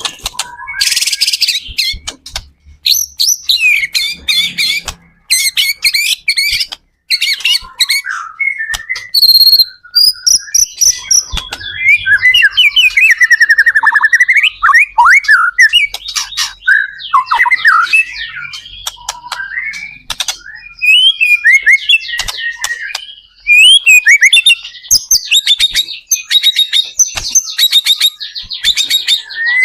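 White-rumped shama (murai batu) singing loudly and continuously, a fast, varied stream of rich whistles, slurred notes, rapid trills and sharp chattering phrases.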